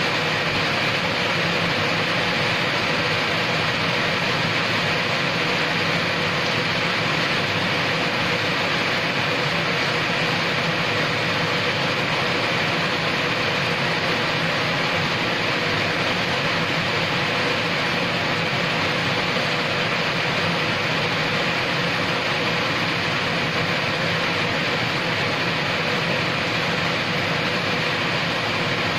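Steady rain falling on a paved yard, an even hiss that does not change.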